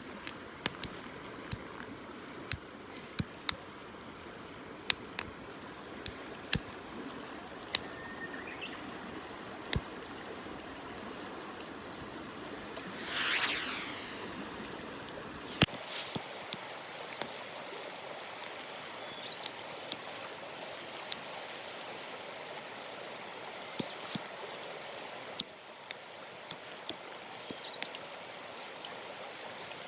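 Steady rush of running water, like a stream, with scattered sharp clicks and ticks on top and a brief louder whoosh about 13 seconds in.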